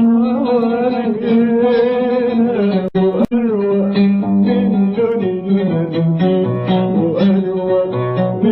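Arabic song: a man singing with wavering pitch over a plucked oud. The sound cuts out twice, very briefly, about three seconds in.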